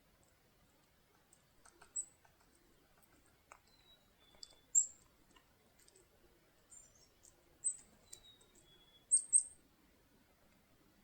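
Black-capped chickadees calling: short, sharp high call notes several times, the loudest pair near the end, and twice a clear two-note whistled song with the second note lower.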